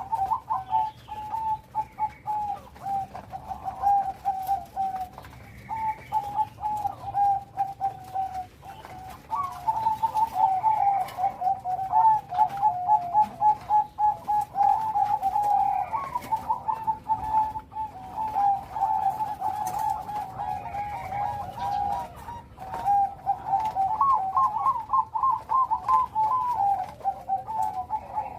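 Zebra dove (perkutut, Bangkok strain) singing its rapid, staccato cooing song, phrase after phrase with only a brief pause about nine seconds in.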